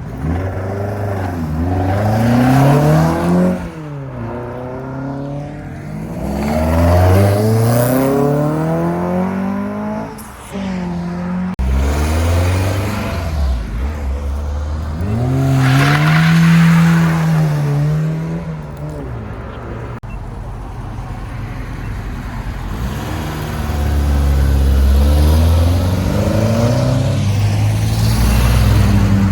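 Cars accelerating away one after another, engine notes rising in pitch through the gears several times over.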